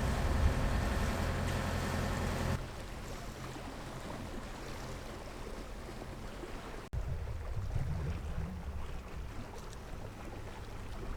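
Dinghy outboard motor running steadily, loud for about the first two and a half seconds. It then drops to a quieter wash of water and wind noise, and after an abrupt break about seven seconds in the motor's low drone comes back.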